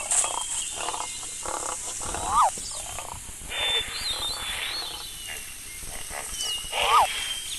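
Animal calls: a short call that rises and falls sharply in pitch comes twice, over high thin whistling calls and scattered rustling.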